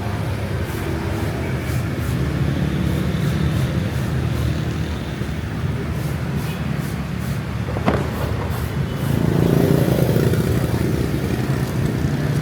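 A motor vehicle's engine running steadily, getting louder for a moment about ten seconds in, with a single sharp click about eight seconds in.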